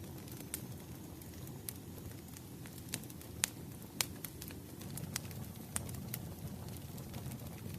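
Firewood burning, with a steady low rush of flame and irregular sharp crackles and pops, the loudest pair about three and a half and four seconds in.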